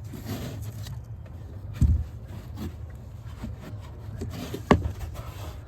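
Light rubbing and handling noises over a low steady hum, with a thump about two seconds in and a sharp click near the end.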